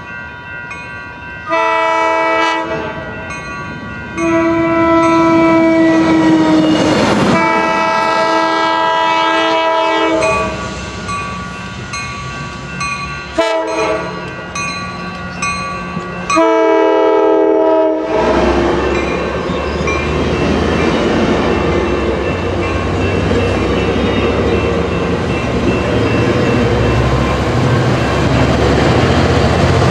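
Coaster commuter train sounding its horn, a chord of several notes at once, in several blasts as it approaches, the longest about six seconds. From a little past halfway the horn stops and the train runs past close by: a steady rumble of wheels on the rails with a low engine drone.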